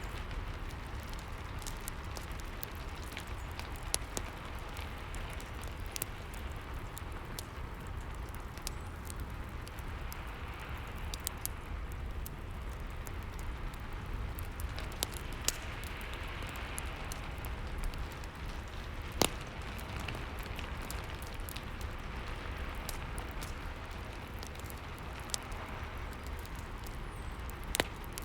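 Steady rain mixed with a crackling fireplace: an even hiss of rain with a low rumble, dotted with scattered sharp pops from the fire.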